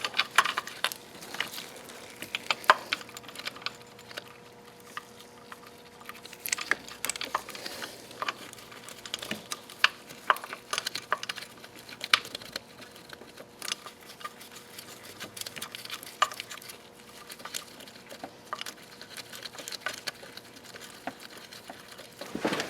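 Irregular light clicks, taps and rustles of metal parts and hand tools being handled while an engine bracket and motor mount are fitted.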